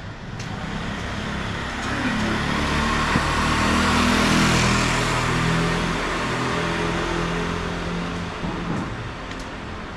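A motor vehicle driving past, its engine and tyre noise growing louder to a peak about four seconds in, then fading away.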